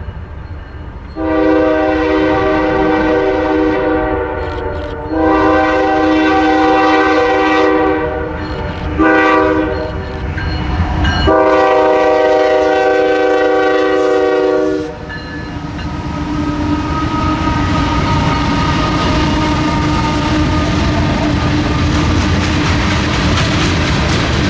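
A diesel freight locomotive's multi-chime air horn sounds the grade-crossing signal: two long blasts, a short one, and a final long one. The train then rolls past with a steady rumble and wheel clatter on the rails.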